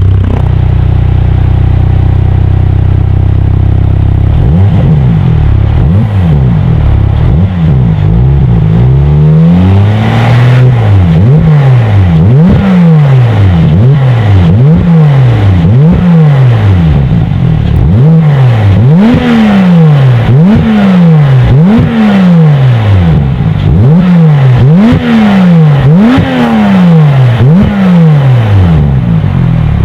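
Porsche 991 Carrera S 3.0-litre twin-turbo flat-six running through a Supersprint stainless steel valved cat-back exhaust. It idles steadily for about four seconds, then is blipped in quick repeated free revs, roughly one every second and a half, each rising and falling back.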